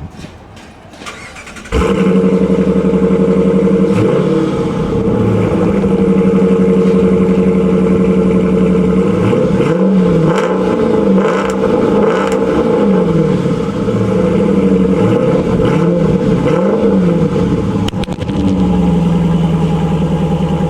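A 2014 Dodge Durango R/T's 5.7-litre HEMI V8 breathing through a Borla cat-back exhaust starts up suddenly about two seconds in and settles to a steady idle. Through the middle it is blipped in a series of short revs that rise and fall, then it drops back to idle near the end.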